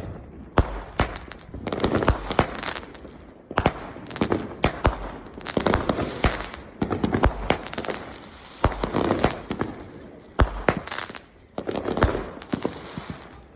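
A 16-shot consumer firework cake firing its shots one after another, each a sharp bang followed by crackling, about one a second, tailing off near the end.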